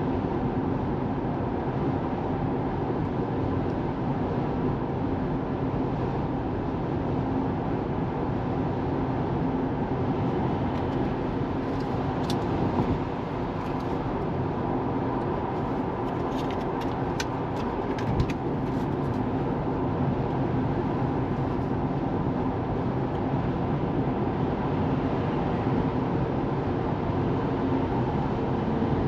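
Steady road and tyre noise of a Tesla Model 3 driving, with a few short clicks and a small thump in the middle.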